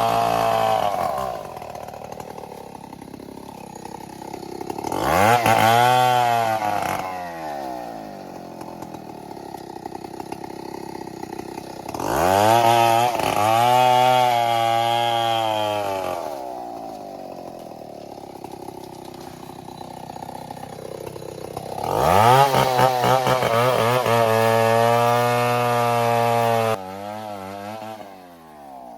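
Two-stroke chainsaw revving up to full throttle in repeated bursts, each lasting one to several seconds, and dropping back to idle between them, as when bucking logs. The last burst cuts off suddenly near the end.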